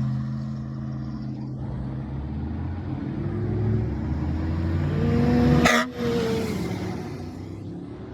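Car engines running, one of them revving up with a rising pitch to a peak about five and a half seconds in, with a single sharp bang at the loudest point before the sound drops away.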